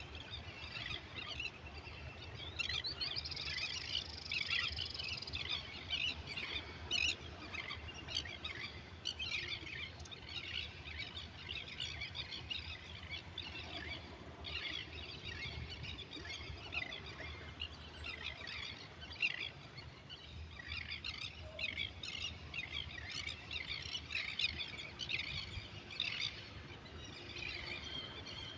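Many birds chirping and calling at once in a dense, continuous chorus, over a steady low rumble of distant surf.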